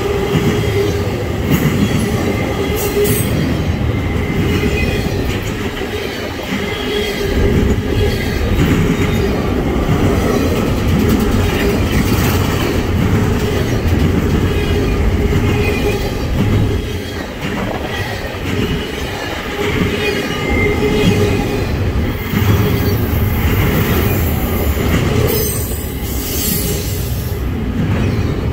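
Double-stack intermodal train's well cars rolling past, steel wheels on rail with a heavy steady rumble and a wheel squeal that comes and goes.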